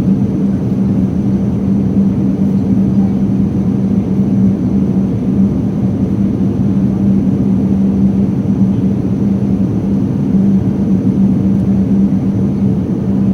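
Airliner cabin noise: a steady, even roar of engines and airflow, heaviest in the low range, with a constant low hum running through it.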